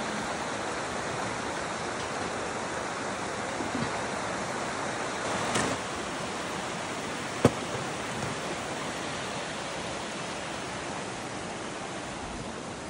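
Steady rushing of a nearby river, with a brief rustle about five and a half seconds in and a single sharp click about two seconds later.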